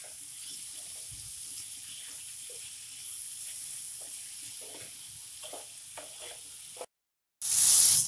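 Chopped tomatoes and masala sizzling in a non-stick frying pan while a spatula stirs them, with small scraping sounds. Near the end the sound cuts out for a moment and a brief, loud rush of noise follows.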